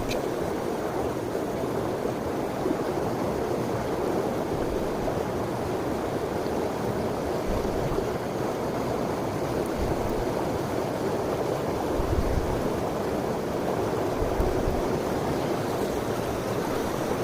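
Mountain stream water rushing over rocks: a steady, even rush with a few soft low bumps.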